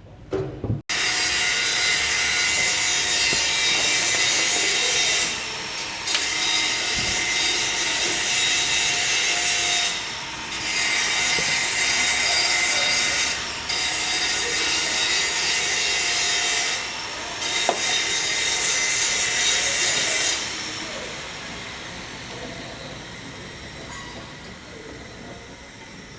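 A power tool running steadily with a harsh hiss. It dips briefly four times, then fades out gradually over several seconds near the end.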